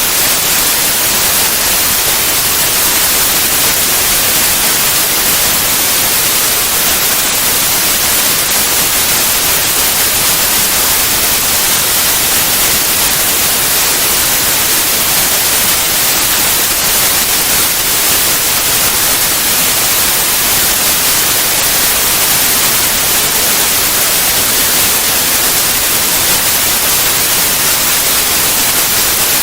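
Steady white noise: an even, unbroken hiss across all pitches, strongest in the highs.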